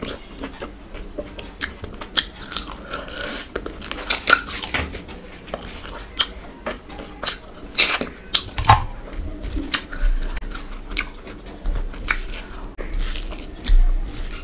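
Close-miked eating: biting and chewing with many short, wet mouth smacks and crunches, from a person eating curry, fish and rice by hand.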